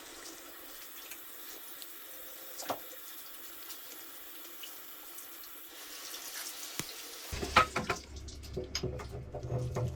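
Water running steadily from a tap. About seven seconds in, a low hum starts and a few sharp clicks and knocks follow.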